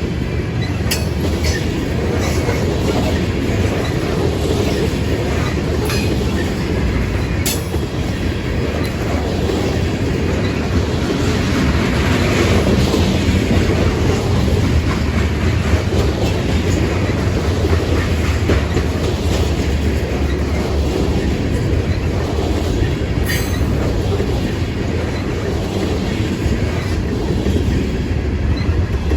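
Loaded grain train rolling past at speed: a steady rumble of steel wheels on the rails, with scattered sharp clicks and clatter.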